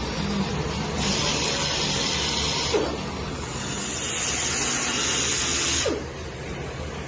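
Two hissing sprays, each about two seconds long, the second starting about a second after the first ends.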